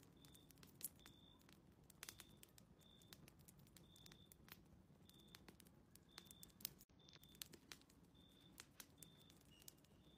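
Faint fireplace crackling: scattered sharp clicks and pops, with short high beeps repeating at irregular intervals of roughly half a second to a second.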